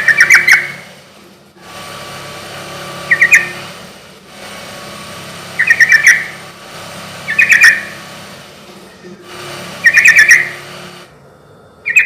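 Yellow-vented bulbul (trucuk) singing: short, loud phrases of quick chattering notes, one about every two seconds, over a faint steady background hum.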